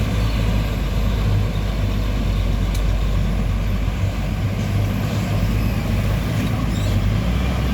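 Heavy truck engine running, a steady deep rumble with road noise.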